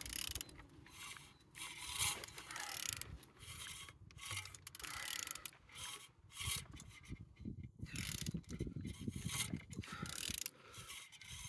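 A loose used CAYC engine (VW 1.6 TDI diesel) being turned over by hand, giving uneven strokes of mechanical clicking and scraping as the crank and internals rotate. It turns freely, not seized.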